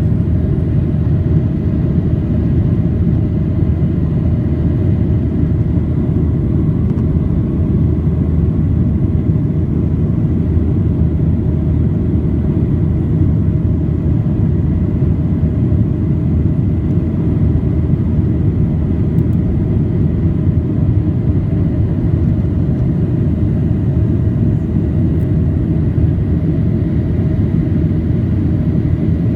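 Airliner cabin noise during takeoff or climb: a steady, loud, deep rumble of engines and rushing air, with a faint steady whine above it.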